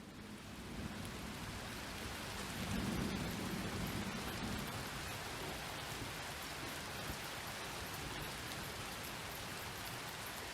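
Steady rain falling, with a low roll of thunder swelling a few seconds in and then fading back under the rain.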